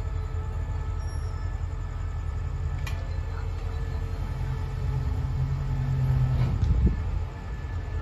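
Diesel-hauled passenger train rumbling low and steady at the platform. A humming engine note grows louder from about halfway and then drops back sharply near the end. A single click sounds about three seconds in.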